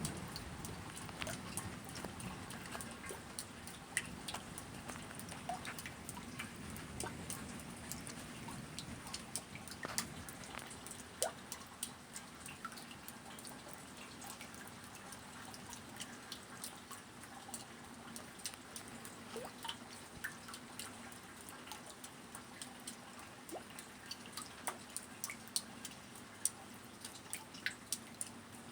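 Raindrops dripping and ticking at irregular intervals over a faint steady rain hiss as a thunderstorm eases, with the tail of a low thunder rumble fading out in the first seconds.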